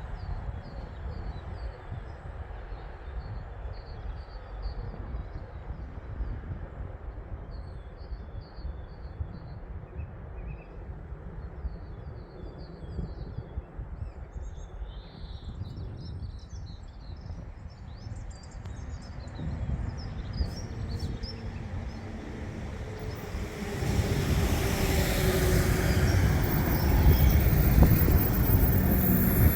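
A low rumble with small birds chirping, then about 24 s in a train comes into the station, much louder, with its wheels squealing on the rails.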